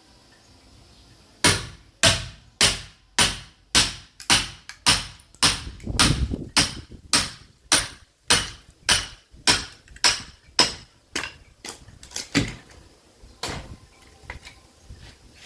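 Sledgehammer striking a steel chisel to split a caviúna hardwood log: a steady run of sharp blows, about two a second, starting about a second and a half in and thinning to a few weaker knocks near the end.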